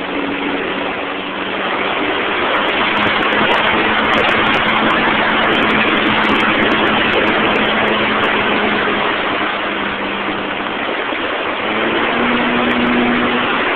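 Model airplane's motor and propeller running in flight, heard from a phone strapped under the fuselage, with heavy wind rushing over the microphone. The motor's hum steps up in pitch near the end.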